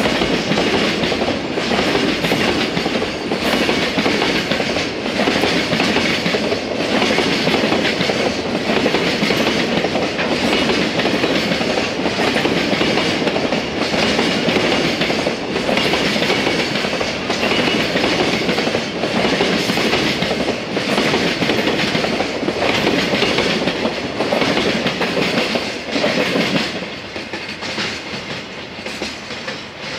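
Long freight train of JR container wagons rolling past, its wheels clacking in a steady rhythm over the rail joints. The sound drops off near the end as the last wagons go by.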